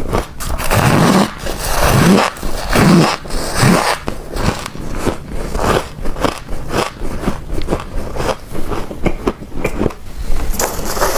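Chunks of freezer frost being bitten and chewed close to the microphone: a dense run of crunching and crackling, with heavier crunches in the first few seconds.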